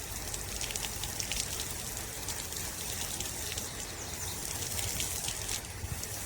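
Water spraying steadily from the shower nozzle of a portable propane tankless water heater, splashing down in a constant hiss with many small drop splashes.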